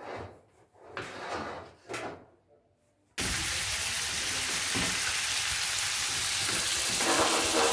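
A few brief, quiet sounds, then about three seconds in a steady sizzle of pork ribs frying in a pan starts abruptly and carries on loudly.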